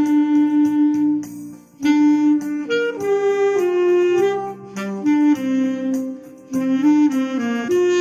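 Clarinet playing a slow song melody in sustained, legato phrases over a backing track with a steady beat, pausing between phrases about two seconds in and again just past six seconds.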